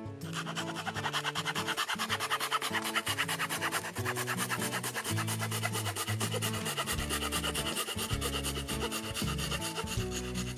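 Small hand saw cutting firewood: fast, even rasping strokes that keep up without a break, over background music.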